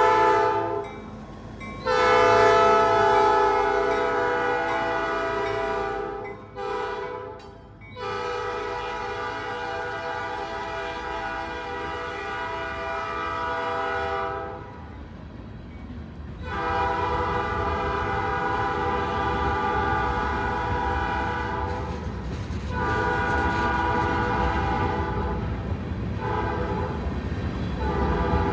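Freight locomotive's multi-chime air horn sounding a string of long blasts with short gaps, with one short blast about seven seconds in. The low rumble of the train builds beneath it in the second half.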